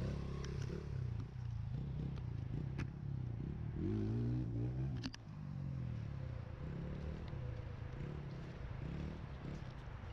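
Pit bike engine running, revving up about four seconds in and dropping off sharply about a second later, with scattered clattering knocks.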